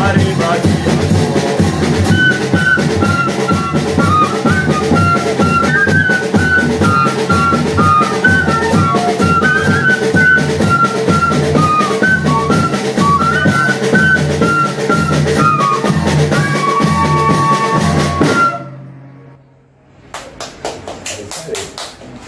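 Banda de pífano playing: a cane fife carries a wavering, ornamented melody over a steady beat of zabumba bass drum and snare drum. The music stops about eighteen seconds in, leaving only a few faint clicks.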